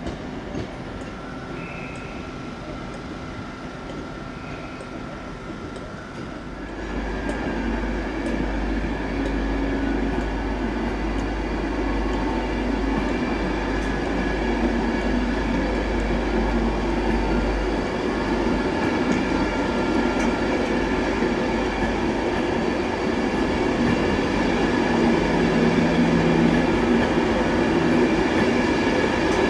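Electric trains moving at a station. The first few seconds are a quieter steady hum from a TransPennine Class 802 unit at the platform. Then it switches abruptly to the louder, steady rumble and wheel noise of an LNER Class 91 locomotive and its Mk4 coaches rolling slowly past, with a deep low rumble for the first ten seconds or so and the noise growing a little louder near the end.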